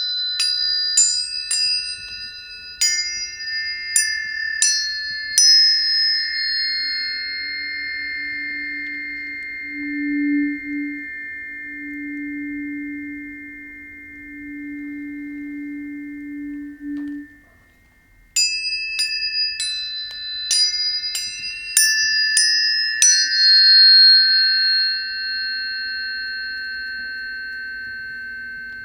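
Planetary tuning forks struck one after another in a quick run, each strike a sharp tap followed by clear ringing tones that overlap and slowly fade. The ringing nearly dies away after about seventeen seconds, then a second run of strikes sets new tones ringing.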